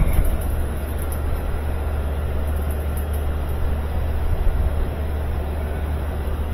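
Whirlpool top-load washing machine running in a test cycle after a tub repair: a steady low hum with an even rushing noise over it.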